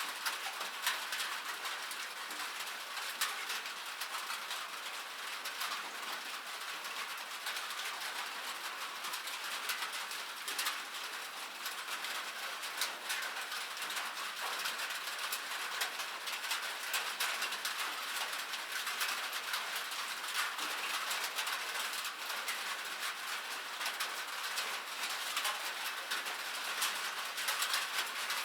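Rain falling on a metal surface: a dense, steady patter of sharp drop ticks over a bright hiss.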